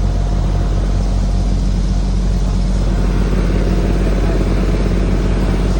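Steady low running hum of a 1/8-scale ride-on model diesel locomotive under way, heard from on board.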